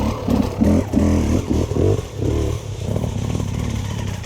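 Dirt bike engine revving, its pitch rising and falling several times over the first couple of seconds, then running lower and steadier.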